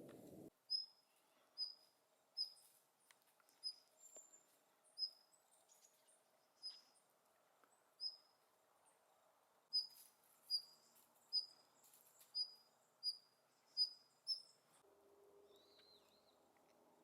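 Siberian long-tailed rosefinch calling: a series of short, high, clear notes, about one a second and a little quicker towards the end. The notes stop about 14 seconds in, and one lower, different note follows.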